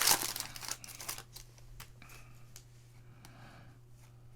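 Foil wrapper of a basketball card pack crinkling as it is torn open, loudest in the first second, then fainter rustling as the cards are slid through the hands.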